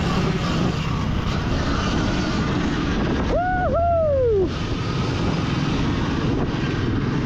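Steady riding noise from a Sur-ron Ultra Bee electric dirt bike being ridden round a motocross track, an even rush with no engine note. A rider's shout of "woohoo" rises and falls about three and a half seconds in.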